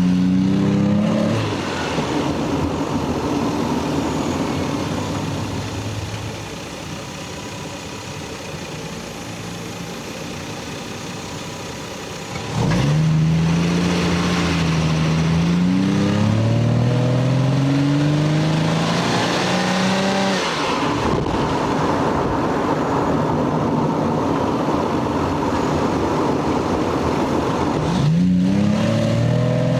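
Lexus GS300's stock inline-six engine and exhaust accelerating hard: the pitch climbs, drops back at an upshift and climbs again, then gives way to a steady rushing noise. The engine is quieter for several seconds near the start, and another rising rev begins near the end.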